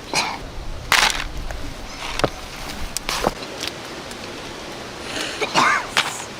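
A handful of short, dry crunching and rustling noises at irregular intervals, loudest about a second in and again near the end.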